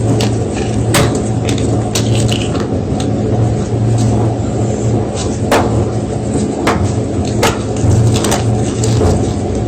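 Block of gym chalk being crushed, giving irregular sharp crunches and cracks, several a second at times, over a steady low hum.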